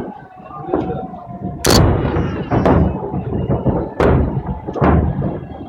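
Fireworks shells bursting in a salute display: four sharp booms within a few seconds, the first and loudest about two seconds in, each followed by a short echoing tail.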